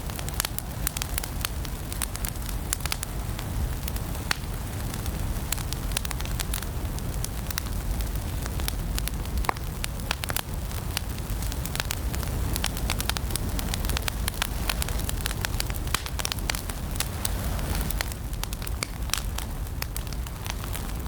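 Fire in a fireplace crackling steadily, with a constant stream of sharp snaps and pops over a low rumble of flame.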